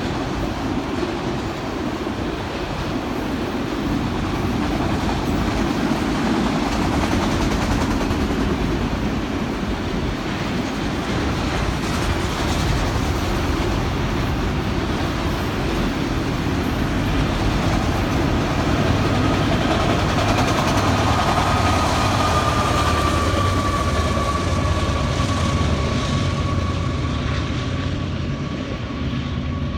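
Union Pacific freight train rolling past with a steady rumble and rattle of railcars on the rails. A thin high whine comes in about two-thirds of the way through and sinks slightly in pitch.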